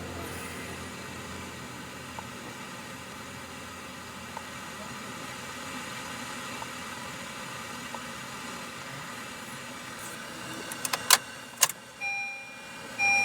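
Faint steady hum from the car with a soft tick every couple of seconds, then a few sharp clicks and, near the end, an electronic beep that sounds in short repeated pulses.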